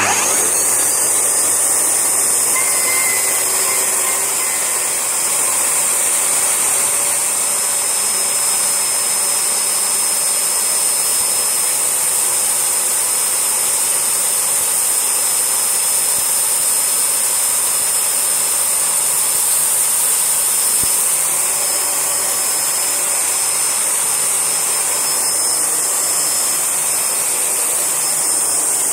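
Panasonic MC-E4103 bagless vacuum cleaner switched on, its motor whine rising as it spins up over about a second. It then runs steadily and loudly with a strong rushing hiss.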